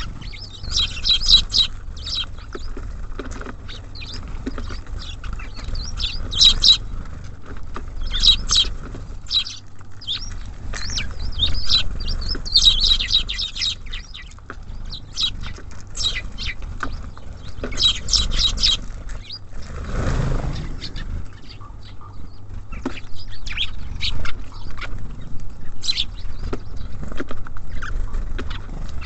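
Small songbirds at a feeder chirping and calling in short, repeated high bursts, with some wing flutters. About two-thirds of the way through there is a brief rushing sound.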